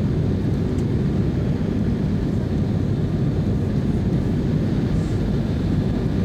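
Steady low rumble of an airliner cabin in flight: engine and airflow noise, unchanging throughout.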